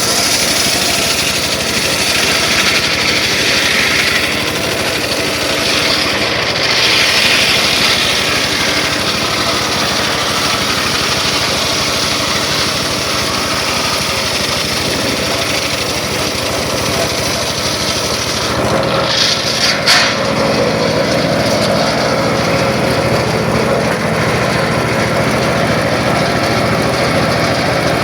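Circular saw running steadily for woodcutting, with a brief sharper, louder burst about two thirds of the way through.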